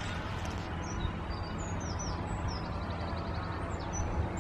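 Small birds singing: short high chirps and, about three seconds in, a quick trill of repeated notes. Underneath runs a steady low outdoor rumble.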